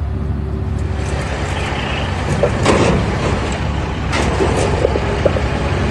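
Loaded dump truck's diesel engine running steadily, with two short bursts of hiss, about two and a half and four seconds in.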